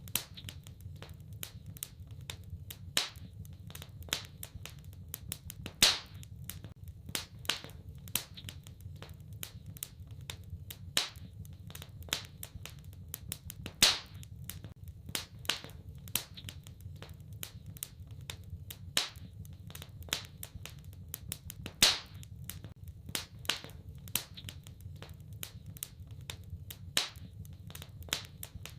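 Wood fire crackling in a fireplace: irregular sharp pops and snaps, a few of them louder every few seconds, over a steady low rumble.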